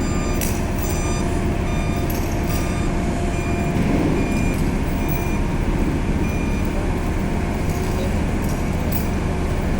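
Heavy vehicle engine running steadily under a repeating electronic warning beep, a short high tone sounding about every half to one second, like a reversing alarm, which fades out near the end.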